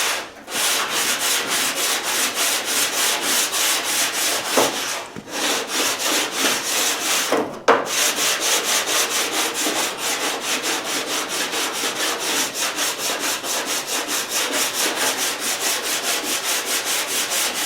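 Hand block-sanding: sandpaper on a square wooden 1x2 block rubbed back and forth in quick, even strokes over a steel car body panel, with two brief pauses. The guide coat is being sanded to show the panel's high and low spots.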